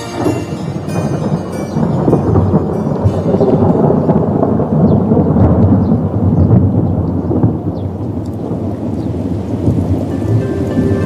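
Heavy rain, a dense rumbling noise that swells and eases unevenly, with faint background music coming in near the end.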